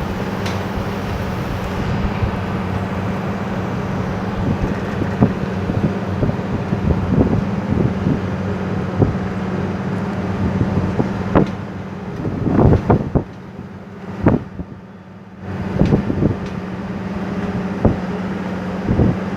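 Strong wind buffeting the microphone, with irregular thumps and gusts over a steady low hum, and a brief lull about two-thirds of the way through.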